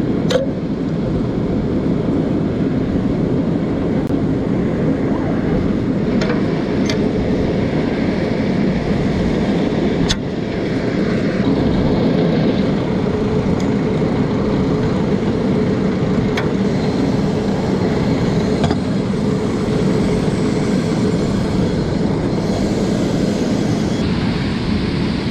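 Steady loud machinery drone with a faint constant hum, broken by a few sharp metallic clicks of hand tools at work on the conveyor motor's drive belts.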